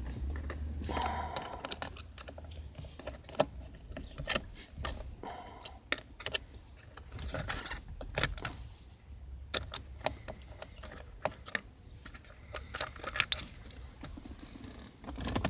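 Hand tools and small screws clicking and clinking irregularly as screws are worked loose by hand.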